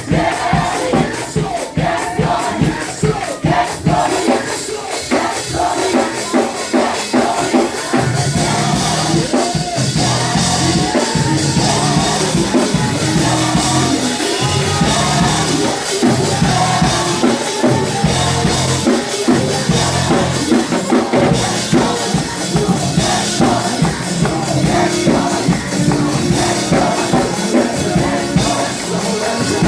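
Live gospel praise music with drums, tambourine and a congregation singing along and clapping. Bass comes in about eight seconds in.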